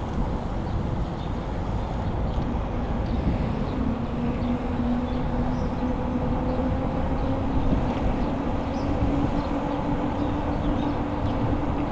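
Bicycle riding noise: a steady rumble of tyres and wind on the microphone. A low hum comes in about four seconds in and climbs slowly in pitch, and there are a few faint high chirps.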